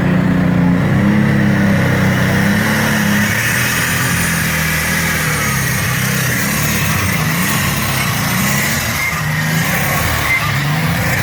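Modified pulling tractor's engine at full throttle during a pull, loud, its pitch wavering up and down as it works.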